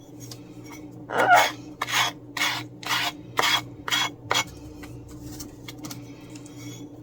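Sanding block rasping over the napkin edges of a homemade coaster in short strokes, about two a second, which stop a little past the middle; a faint steady hum lies underneath.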